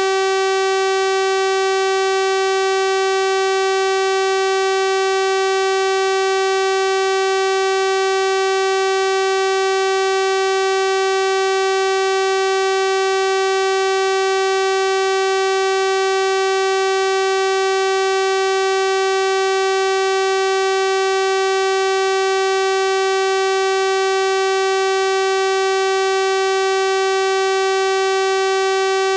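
Synthesized 384 Hz sawtooth-wave test tone, a steady buzzy drone holding one pitch with a dense row of overtones, unchanging throughout.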